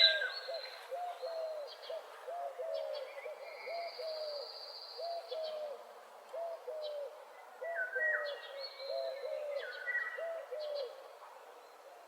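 Several wild birds singing. One bird repeats a low call over and over, and higher whistled notes and phrases from other birds come and go above it.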